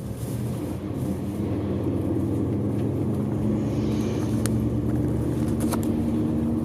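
A bus engine running as the coach drives along, heard from inside the cabin. It makes a steady drone that grows louder about a second in. A few sharp clicks or rattles come near the end.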